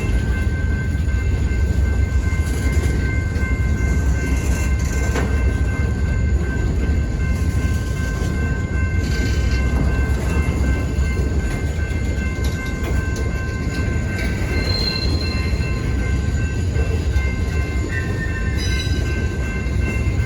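A freight train rolling past with a steady, heavy low rumble from its wheels and cars. A few faint, steady high tones sit over it throughout.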